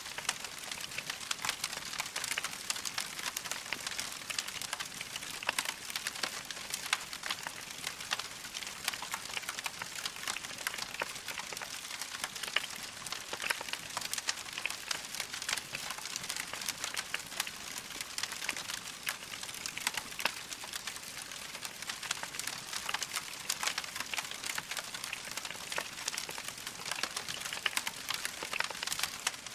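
Wood fire crackling steadily in a fireplace, a dense run of small pops and snaps.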